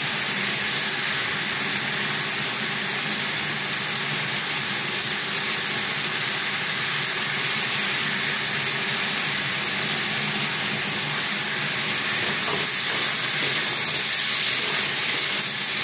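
Ridge gourd and potato pieces sizzling steadily in oil and masala in a steel kadai. Near the end a spatula stirs them and the sizzle grows a little louder.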